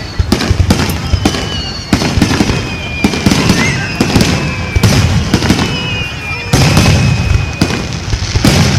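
Fireworks display going off: a dense run of crackling pops and bangs over a low rumble, with thin high whistling tones drawn out over a second or more.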